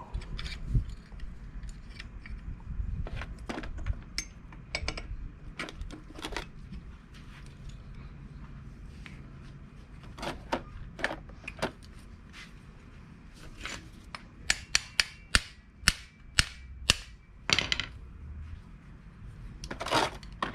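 Sharp clicks and knocks of the replacement sliding-door roller assembly being handled and fitted into place by hand. It is scattered at first, then there is a quick run of about eight clicks in the last quarter.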